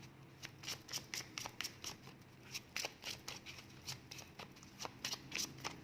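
Paper oracle word cards being drawn from a deck and handled: an irregular run of light, sharp card clicks and flicks, several a second.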